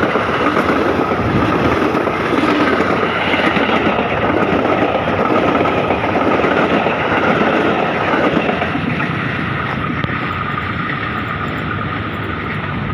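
KRL electric commuter train running past at close range: a loud, steady rumble with a high, steady whine on top, easing slightly near the end.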